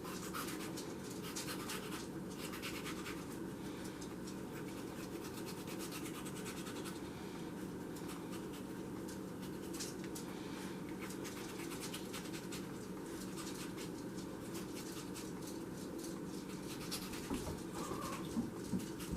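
Knife cutting a tomato on a cutting board: light, irregular scratches and taps over a steady low hum.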